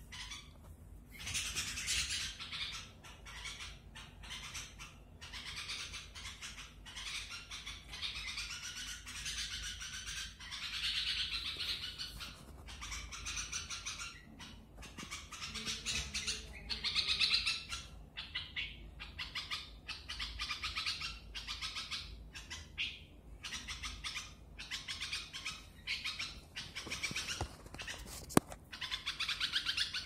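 Baby bird calling over and over in rapid, high, harsh chirps and squawks, in clusters with short pauses. One sharp click comes near the end.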